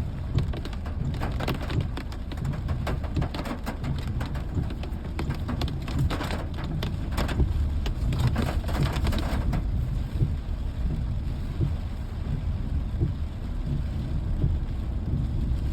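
Rain falling, with many drops spattering onto a surface over a steady low rumble. The drop hits are dense for the first ten seconds or so, then thin out.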